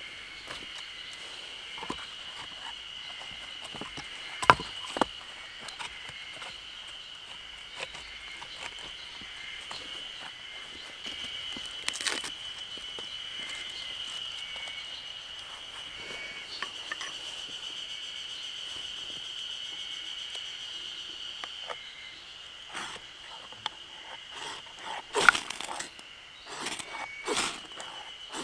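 Steady high-pitched insect drone, with sharp knocks and clicks from camp handling: one about four and a half seconds in, one near the middle, and a cluster near the end.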